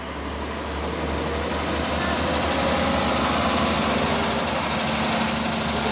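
Heavy diesel truck engine running with a low steady drone. It grows louder over the first couple of seconds, then holds steady.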